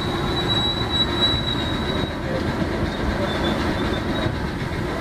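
Train running along the track, a steady rumble of wheels on rail with a thin high wheel squeal held for the first two seconds, then returning in short snatches from about three seconds in.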